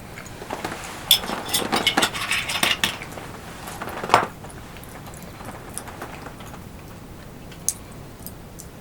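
Dishes and utensils clinking and knocking as they are handled: a run of small clinks in the first few seconds, one louder knock about four seconds in, then a few faint ticks.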